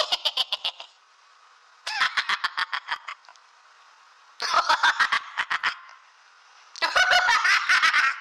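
High-pitched laughter sound effect: rapid stuttering laughs in four bursts of about a second each, with short pauses between.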